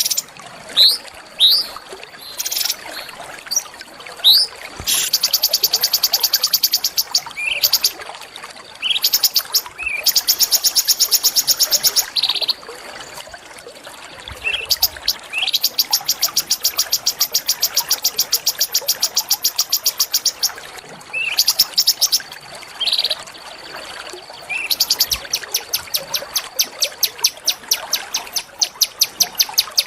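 Small songbird singing: short, sharp rising whistles alternating with long, very fast rattling trills that each last a few seconds.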